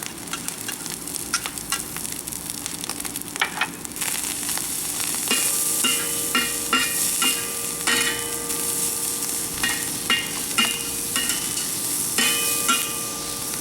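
Rice and garlic sizzling in a hot carbon-steel wok while being stirred, with a metal utensil repeatedly scraping and clinking against the wok so that it rings. The sizzle grows louder about four seconds in.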